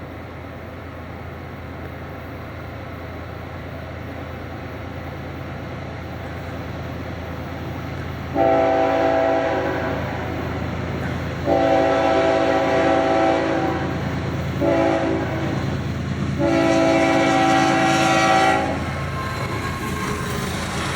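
Florida East Coast Railway freight locomotive's horn sounding the grade-crossing signal: two long blasts, a short one and a final long one. It is a chord of several steady tones, over the low rumble of the approaching train, which grows louder in the first eight seconds.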